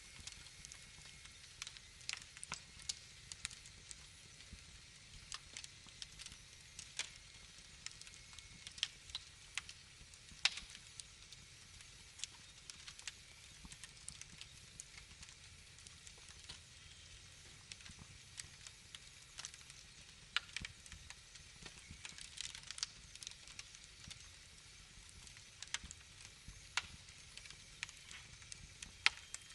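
Wood fire in a fireplace crackling: irregular sharp pops and snaps over a soft, steady hiss.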